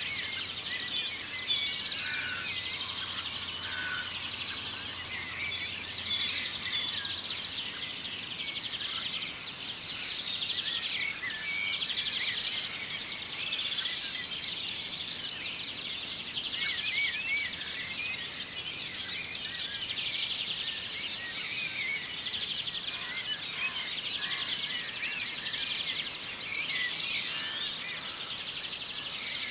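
Many songbirds singing at once in a morning chorus: dense overlapping chirps, whistles and trills, steady throughout.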